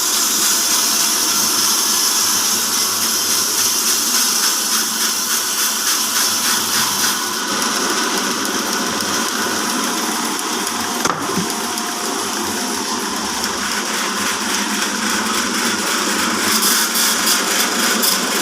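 Horizontal band sawmill driven by a 5 HP electric motor, running with a steady, loud hissing machine noise. There is a single sharp click about eleven seconds in.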